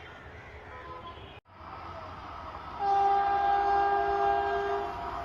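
Indian Railways locomotive horn sounding one long blast of about two seconds over the running noise of a train, after a sudden cut between clips.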